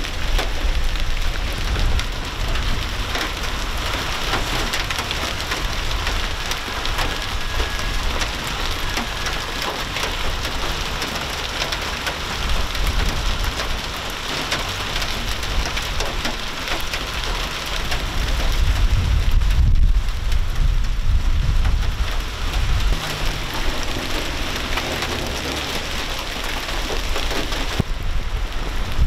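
Heavy rain and hail pelting down, a dense steady hiss full of sharp individual impacts. A low rumble swells for a few seconds about two-thirds of the way through.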